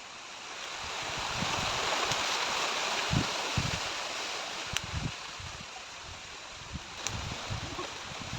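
Wind blowing through forest trees in a gust that builds over the first couple of seconds and then slowly eases, with wind buffeting the microphone in low rumbles.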